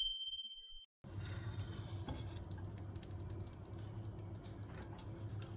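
Microwave oven's bell ringing out as the cooking cycle ends, fading over about a second, after which a faint low hum with light scattered ticks sets in.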